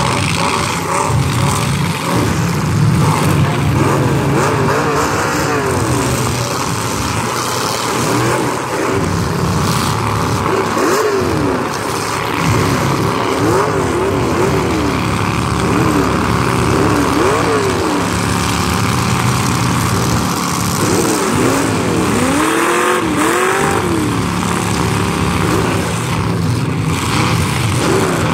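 Several demolition derby cars' engines running together in a steady drone, with engines revving again and again, their pitch climbing and falling many times over.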